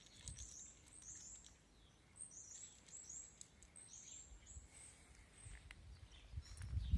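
Small birds chirping: a quick run of short, high chirps through the first five seconds, with faint crunching clicks of cats chewing dry kibble. A low rumble swells near the end.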